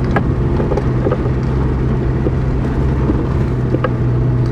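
1995 Toyota Hilux heard from inside the cab while driving: a steady engine and road drone, with a few light knocks and rattles.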